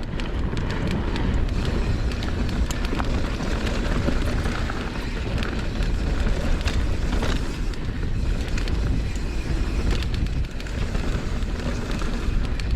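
Mountain bike descending rocky singletrack: a steady rush of wind on the microphone and tyres rolling over dirt and rock, with scattered clicks and rattles from the bike.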